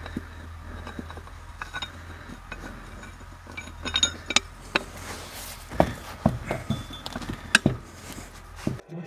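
Hand tools and metal wheel parts clinking and knocking as a tractor wheel is put back together: a string of sharp clinks, with louder knocks in the second half, over a faint low hum.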